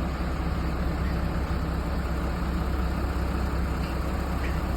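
Heavy diesel engine running steadily at a constant speed, a low even drone with no revving.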